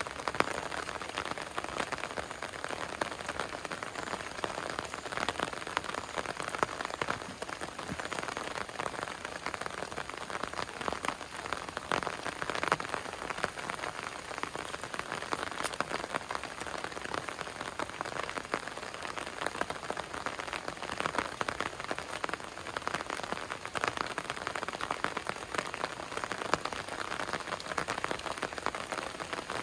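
Heavy rain falling steadily: a dense hiss with many close drop hits on a surface.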